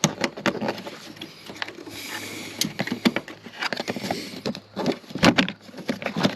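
Hands working on car parts: an irregular run of clicks, taps and knocks, with a brief scraping hiss about two seconds in and one louder knock a little after five seconds.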